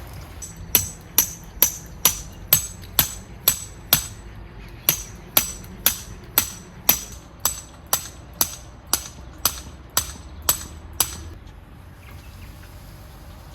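A tent peg being driven into the ground with a hammer: sharp metallic strikes at about two a second, with a brief break about four seconds in, stopping about eleven seconds in.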